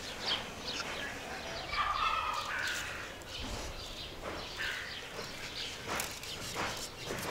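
Birds calling: many short chirps, and a longer, fuller call about two seconds in.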